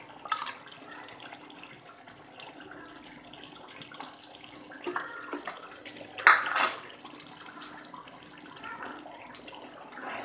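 Beef karahi sizzling and bubbling in oil in the karahi on the stove, with a few short scrapes and knocks of spoons against the pan and bowl, the loudest about six seconds in.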